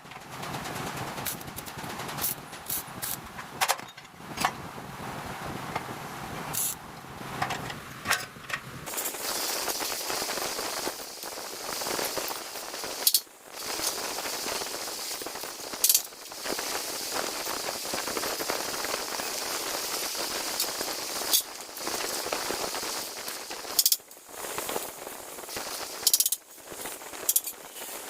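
Irregular sharp metal knocks and clanks from hand metalwork on a centrifugal fan impeller, over a steady hiss that starts about a third of the way in.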